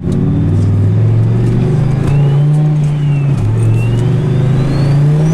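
Turbocharged Dodge Ram SRT-10's 8.3-litre V10 engine running loudly, its note stepping up and down a few times, with a thin whistle gliding up and down above it.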